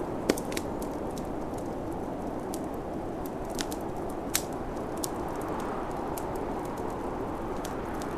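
Wood fire crackling with scattered sharp pops, the loudest near the start and about four seconds in, over a steady rush of snowstorm wind.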